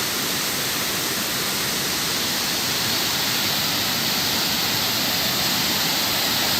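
Waterfall water rushing in a steady, loud hiss, a little brighter from about halfway through.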